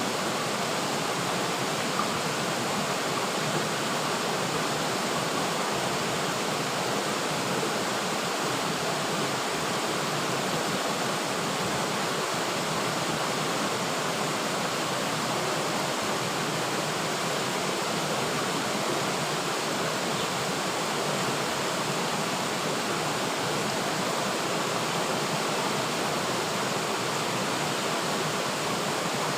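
River water flowing over rocks in a steady, even rush with no breaks or changes.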